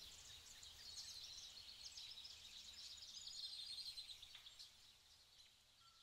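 Faint birdsong: many short, high chirps from several birds over a soft outdoor hush, fading out over the last second or two.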